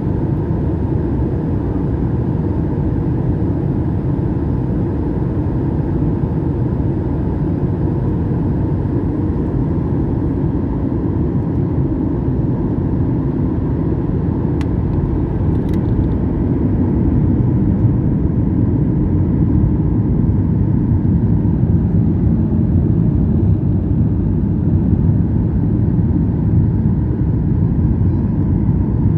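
Airliner cabin noise: a steady low rumble of engines and airflow, getting slightly louder a little past halfway, with two faint clicks near the middle.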